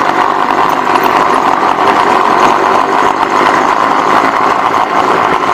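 Small engine of a motorized bicycle running with a steady, loud, buzzing drone.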